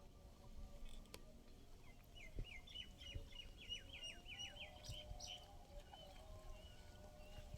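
Faint bird chirping: a quick series of short, falling calls, densest in the middle of the stretch, over a low rumble.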